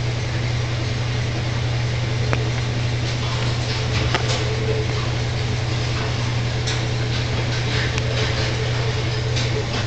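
A steady low mechanical hum with an even hiss over it, and a few faint clicks.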